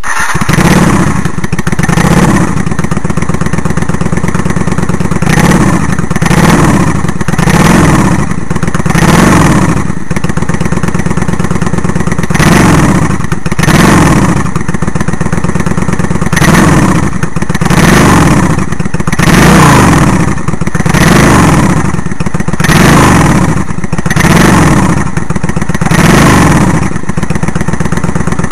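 Honda Steed 400 V-twin exhaust through a quiet silencer with its sound-reducing baffle plate removed: the engine idles and is blipped on the throttle over and over, about once every second and a half, then settles back to idle near the end.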